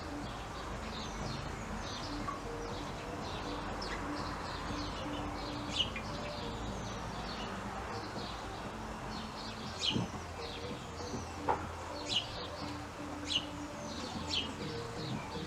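Small garden birds chirping: many short, high calls, each falling quickly in pitch, coming more often in the second half. A couple of sharp clicks sound about ten and eleven and a half seconds in.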